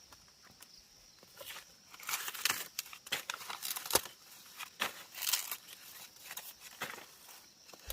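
Irregular rustling and tearing of dry material, with a sharp snap about four seconds in.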